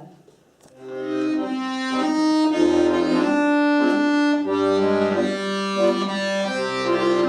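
Accordion playing the introduction to a Russian folk song: held chords over sustained bass notes, starting about a second in after a brief pause.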